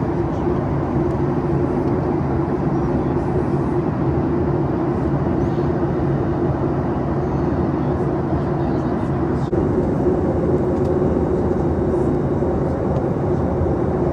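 Steady drone of a Boeing 737 MAX passenger cabin in flight, engines and airflow making an even roar with a low hum. A brief click about nine and a half seconds in.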